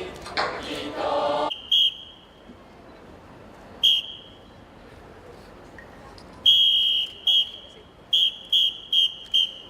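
A group singing or chanting together stops about a second and a half in, then a whistle sounds in short, sharp blasts: two single blasts, a longer blast, then a quick run of five.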